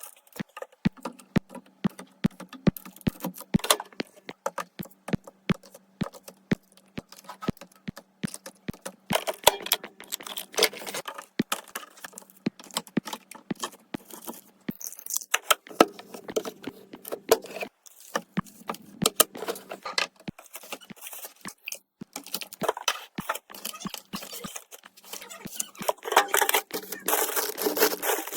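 Packaged food and containers being handled and set into a fridge: a long run of light clicks and knocks, regular at about two a second early on, with bursts of crinkling and rustling packaging and a faint low hum underneath.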